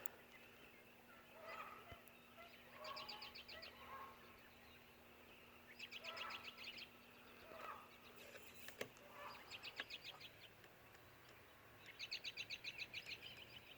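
Faint birdsong: a fast trill of rapid notes, about a second long, repeated four times, with softer calls from other birds in between.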